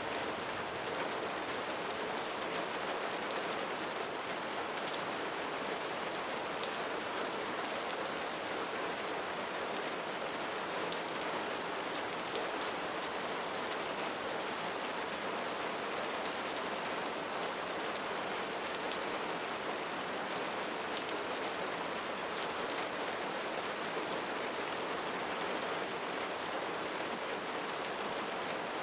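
Steady rain falling on leaves, an even hiss with fine drop ticks scattered through it and no change in strength.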